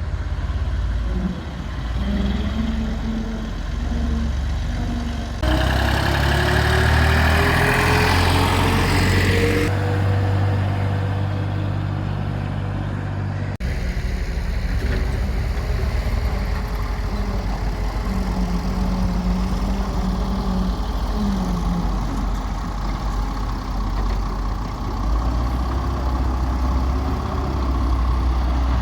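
Hyundai excavator's diesel engine running under hydraulic load. About five seconds in, the revs climb and a loud hiss rises over the engine for around four seconds, then the engine settles back to a steady run.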